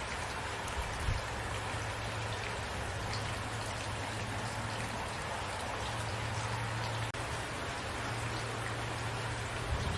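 Steady rain falling, an even hiss with scattered individual drops ticking on a surface. A low steady hum runs beneath it, with a soft thump about a second in and another near the end.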